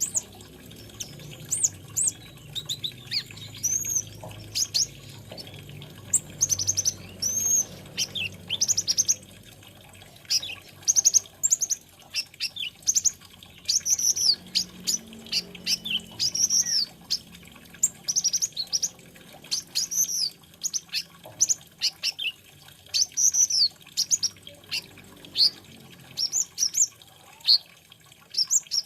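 Brown-throated sunbird (kolibri ninja) singing: a long run of short, high, arching chirps and twitters that come in quick clusters, with brief pauses between them.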